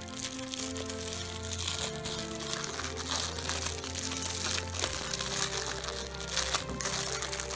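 A candy wrapper crinkling as it is opened by hand, over background music.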